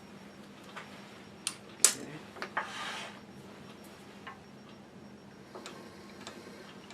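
A few light clicks and knocks of small tools being handled, the sharpest just under two seconds in, with a short scratchy scrape around three seconds in, over a faint steady hum.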